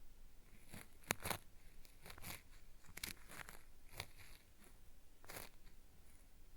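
Cotton swab scraping and rubbing against the ear of a binaural microphone: an ASMR ear-cleaning sound meant to feel like earwax being peeled away. Irregular rasping, crackly strokes, with a few sharper scratches about a second in, at about three and four seconds, and again near the end.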